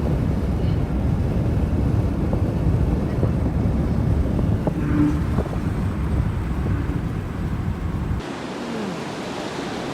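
Steady low rumbling noise with a hiss above it, cutting off abruptly about eight seconds in to a much quieter background.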